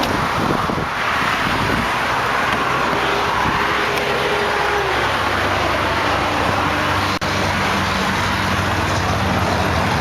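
Steady road traffic noise, with a brief dropout a little after halfway.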